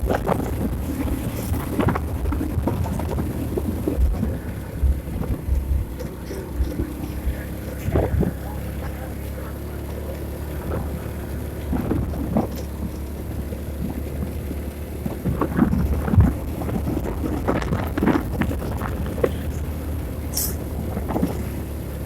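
A vehicle's engine running steadily while driving, with scattered bumps and knocks and some wind noise.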